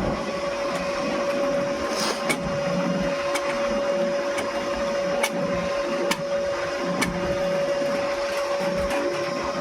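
Factory machinery running: a steady mechanical hum carrying one constant mid-pitched tone, with scattered light clicks and ticks at irregular intervals.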